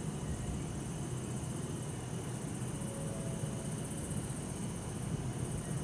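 Steady hum of distant city traffic, with a continuous chorus of bell crickets (suzumushi) chirring high above it.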